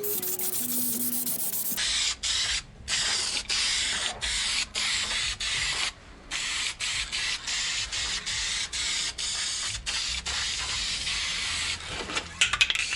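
Aerosol spray can hissing in a long run of sprays broken by many brief pauses, as a finish is sprayed on.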